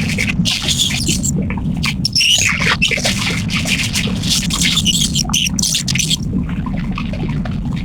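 Birds squawking and chirping in irregular shrill calls that die away about six seconds in, over the boat's steady low engine rumble.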